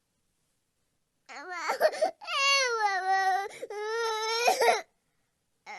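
Baby crying: a few short broken cries starting about a second in, then one long wail that stops shortly before the end.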